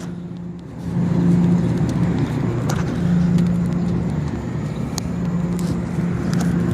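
Steady mechanical hum under an even rushing noise, dipping briefly in the first second and then holding level, with a few faint clicks.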